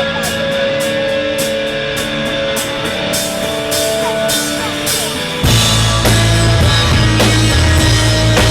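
Live band playing a song: guitar over a ticking cymbal beat, then bass and full drums come in suddenly about five and a half seconds in. Recorded through a compact camera's built-in microphone, which the uploader finds sounds broken and harsh.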